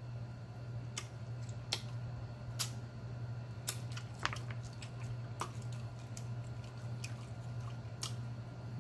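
Close-miked chewing and biting of a hot chicken wing: wet, squishy mouth sounds with sharp clicks and smacks coming irregularly every half second to a second, over a steady low hum.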